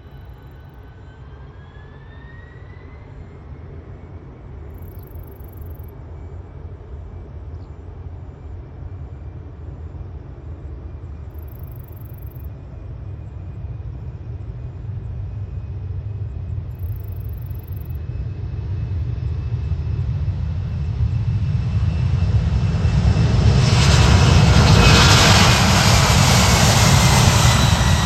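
Jet airliner's engines passing close, growing steadily louder from a distant whine to a loud rushing rumble near the end.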